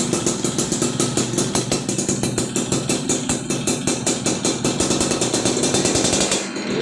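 Yamaha F1ZR two-stroke motorcycle engine idling through a chrome Brat aftermarket exhaust: a steady, rapid popping pulse, about five or six a second, with a brief dip in the sound near the end.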